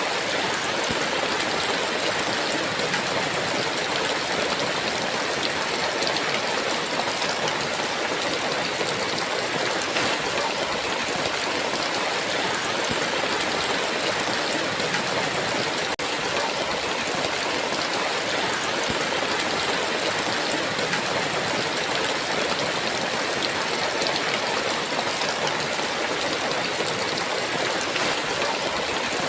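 Heavy rain falling steadily in a constant, even downpour.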